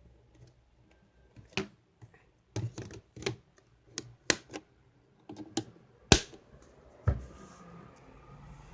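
A series of irregular sharp clicks and knocks, like hard objects being handled and tapped, about a dozen in all. The loudest comes a bit after six seconds, and a heavier low knock just after seven is followed by a faint steady low rumble.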